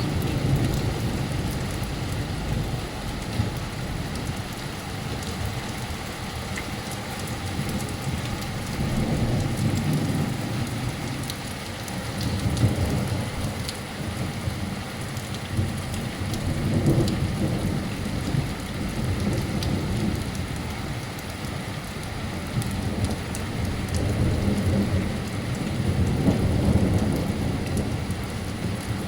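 Torrential thunderstorm rain pouring down and splashing onto waterlogged paving slabs, a steady hiss, with long rolls of thunder rumbling in and fading away several times.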